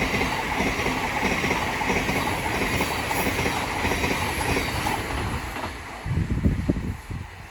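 Thameslink Class 700 electric multiple unit passing through the station at speed, with a steady loud rush of wheel and rail noise. The noise dies away about six seconds in, leaving a few low thumps near the end.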